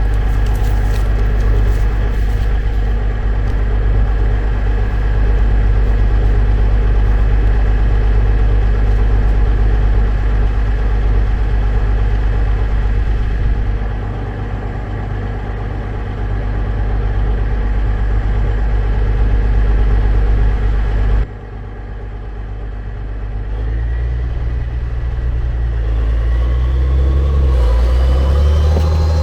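Cat Challenger tractor's diesel engine working hard as the stuck tractor tries to drive itself out of the mud, a loud steady drone. About two-thirds of the way in, the sound drops suddenly, then the engine rises in pitch again near the end.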